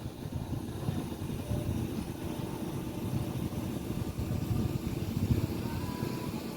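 Motorboat engine running steadily, a low rumble with a faint steady hum above it.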